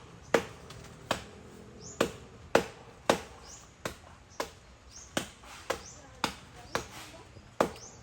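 Blade chopping into a tree trunk to cut a foothold: about a dozen sharp, even strikes, roughly three every two seconds, each with a short ring.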